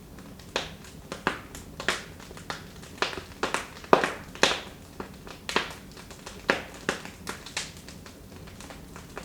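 Wood fire in a fireplace crackling: irregular sharp pops and snaps over a soft hiss, busiest in the middle and thinning out near the end.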